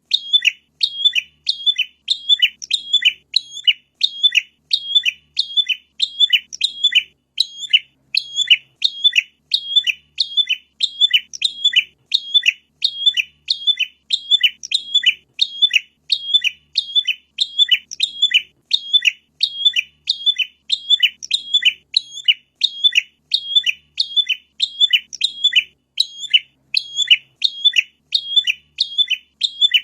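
Prinia (prenjak) calling: an unbroken, even series of sharp high chirps, about three a second. Each chirp sweeps downward.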